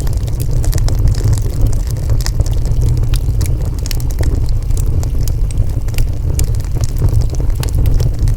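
Wood fire burning steadily, with a constant low rumble under frequent sharp crackles and pops from the burning wood.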